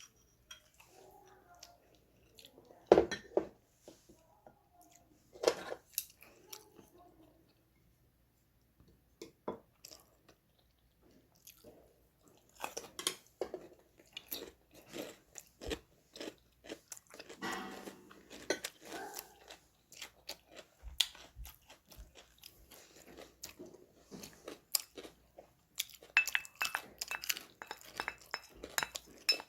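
A person chewing and crunching food close to the microphone, with many short, sharp clicks and quiet gaps between mouthfuls.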